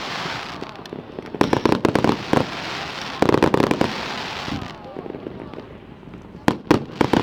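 Starmine fireworks barrage firing, heard as three rapid volleys of sharp bangs with a crackling hiss between them.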